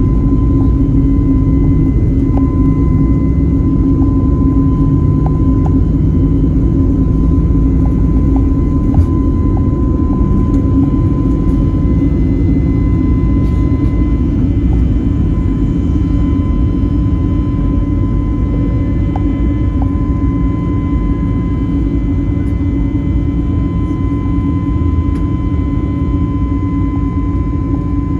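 Airbus A320neo cabin noise in flight: a loud, steady rumble of engines and airflow with a constant low hum and a thin high whine, easing slightly toward the end.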